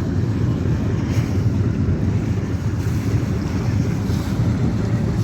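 Ferry boat's engine running steadily, a low hum under wind buffeting the microphone.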